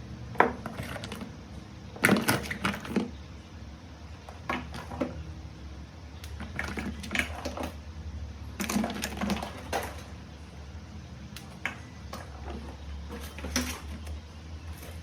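Irregular sharp clicks and short bursts of clattering from hard objects being handled on a workbench, over a steady low hum.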